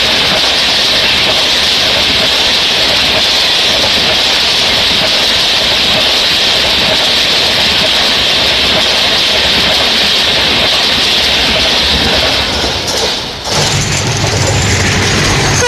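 Train passing close at speed: a loud, steady rush of wheel and air noise that breaks off about thirteen seconds in and gives way to a lower rumble.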